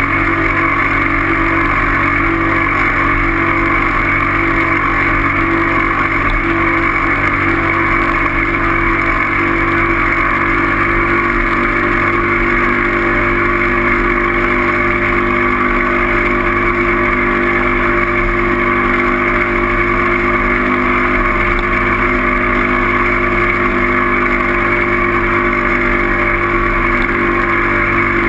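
Steady riding noise of a bike in motion: constant wind and road noise with a low hum, unchanging in level throughout.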